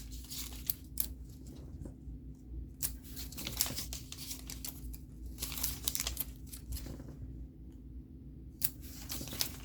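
Scratch-off stickers being peeled from their roll backing and pressed onto paper: an irregular run of short crinkles, ticks and taps.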